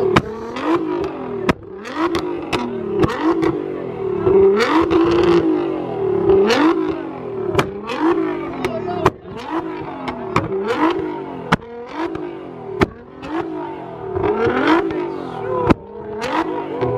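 Lamborghini Aventador SVJ's V12, fitted with a Gintani F1 exhaust, revved in quick blips about once a second, with sharp pops and bangs from the exhaust.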